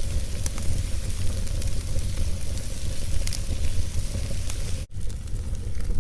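Fireplace fire burning with a steady low rumble and scattered sharp crackles. The sound cuts out for an instant about five seconds in.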